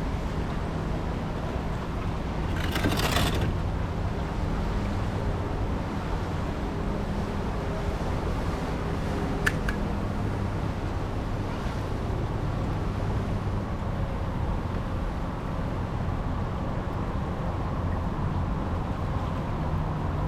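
Steady low rumble of wind and water on open water, with a faint low drone beneath it. There is a brief rushing noise about three seconds in and a sharp click near the middle.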